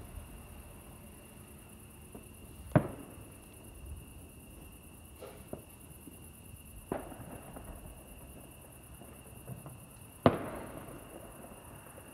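Distant fireworks going off: three sharp bangs a few seconds apart, the last the loudest, each trailing off in an echo, with a fainter pop between them. A steady faint high whine runs underneath.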